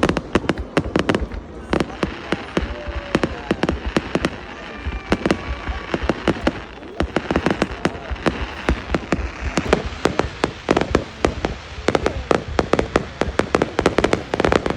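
Fireworks going off in rapid, near-continuous bangs and crackles. The bursts thin out a little in the middle and crowd together again from about ten seconds in.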